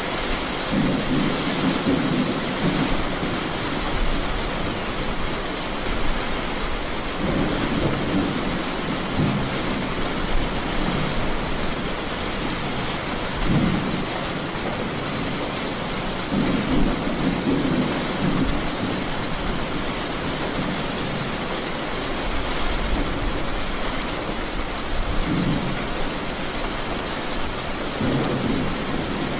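A thunderstorm: steady rain hiss with low rolls of thunder that swell and fade about six times.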